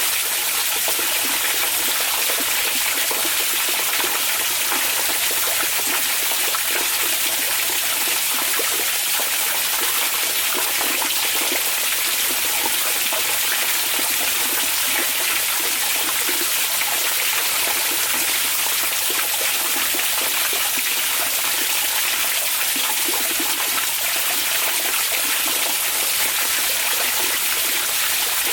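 Hot-spring water running in a steady, continuous rush, with fine splashing and trickling detail.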